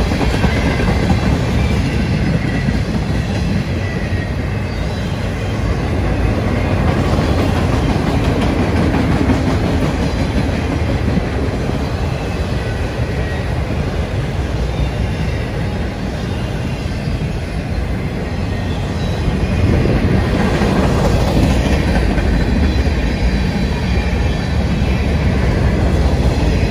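Freight train cars rolling past at close range: a steady rumble of steel wheels on the rails, growing somewhat louder near the end.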